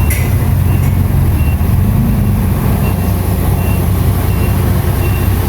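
Heavy diesel earthmoving machine running with a steady low rumble while its reversing alarm sounds short, evenly spaced high beeps, the sign that the machine is backing up. A brief clank is heard right at the start.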